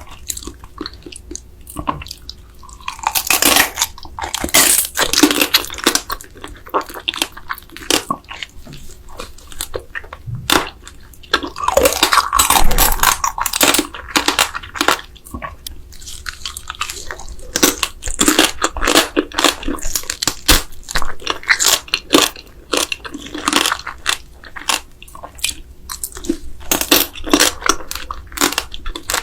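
Close-miked eating sounds: wet chewing and crunching with many quick clicks and crackles, from a mouthful of raw soy-sauce marinated crab and rice.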